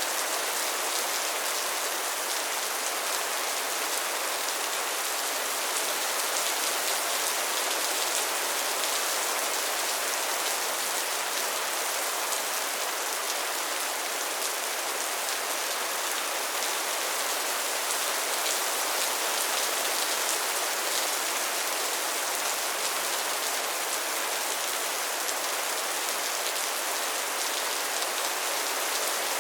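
Steady rainfall: an even hiss of many drops pattering on a surface, holding the same level throughout.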